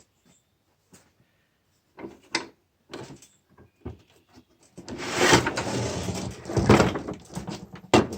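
Scattered knocks and clicks, then from about five seconds in a loud run of clattering, scraping and knocking as parts are handled on a lawn mower's engine mount.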